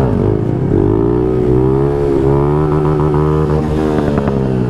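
Honda Grom's single-cylinder engine under throttle from the rider's own bike, its pitch climbing about a second in, then dipping and climbing again just after two seconds before holding steady.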